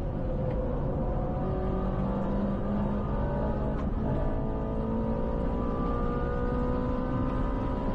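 Car engine running under acceleration: its pitch climbs slowly and steadily, with a brief dip and a click about four seconds in before climbing again.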